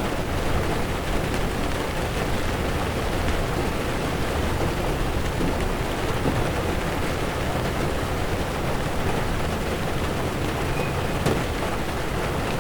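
Heavy rain beating steadily on a car's windshield and roof, under a low rumble of tyres on wet road, heard from inside the moving car.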